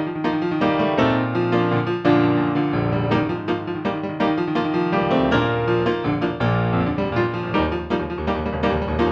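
Solo piano playing a fast, busy passage of many quick notes over held bass notes.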